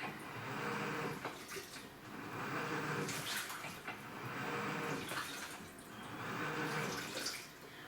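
AQUA top-loading washing machine in its wash cycle. The direct-drive inverter motor turns the pulsator back and forth, and water sloshes in the tub in swells about every two seconds, with a low motor hum under each swell.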